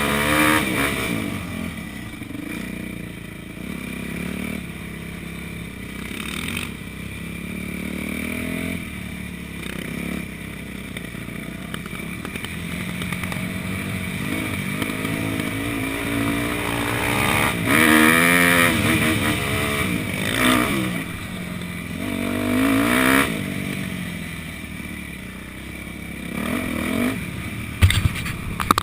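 Motocross bike engines revving, their pitch rising and falling, with the loudest surges about two thirds of the way through.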